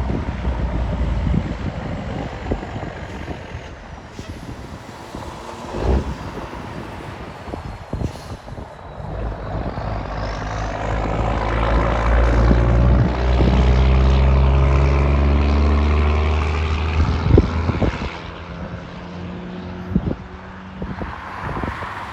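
A truck driving past, its engine growing louder from about ten seconds in, loudest for several seconds, then dropping away near the end, with a few short knocks along the way.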